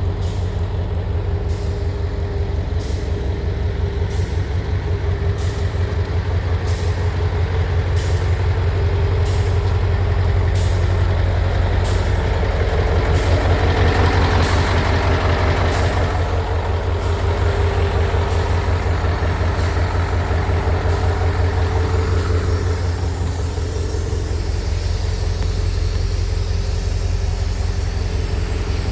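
Scania truck's diesel engine running steadily with a deep hum. A regular tick comes a little more than once a second through the first half, and a swell of hissing noise rises and fades around the middle.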